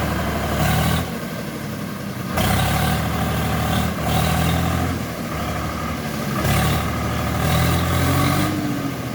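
Swaraj tractor's diesel engine running under load, its throttle rising and falling in repeated surges of a second or two as it manoeuvres with a trolley in tow.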